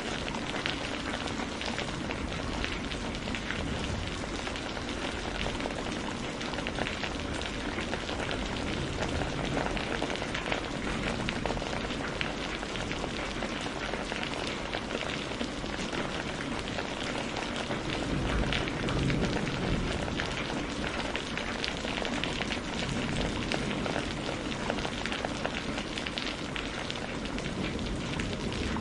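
Steady rain: an even hiss filled with many separate drops striking a surface.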